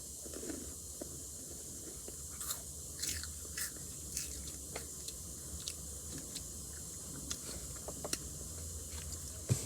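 Someone biting and chewing a crunchy snack, with irregular crunches every second or so.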